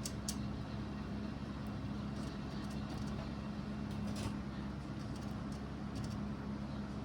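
A steady low mechanical hum with a constant pitch, and a few faint clicks over it.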